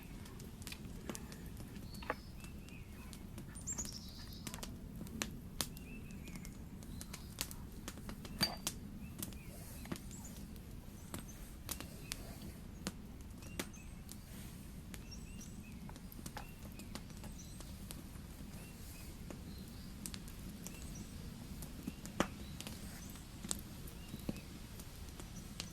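Wood campfire crackling, with irregular sharp pops and snaps over a steady low rumble. A few faint high bird chirps can be heard near the start.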